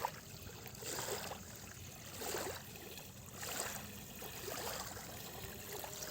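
Small wind-driven waves lapping at a lake shore, faint soft swashes about every second and a quarter.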